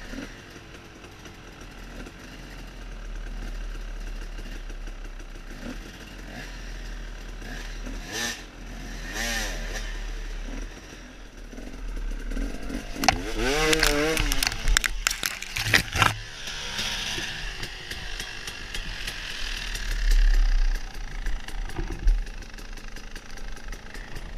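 KTM EXC enduro motorcycle engine running on a steep off-road climb, revving up and down in bursts about halfway through, with several sharp knocks and clatter during the revving.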